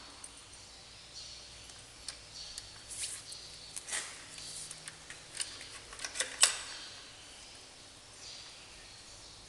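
Hand tools and engine parts clicking and clinking in scattered light strikes during engine disassembly work. The strikes are busiest between about two and six and a half seconds in, and the sharpest comes near six and a half seconds.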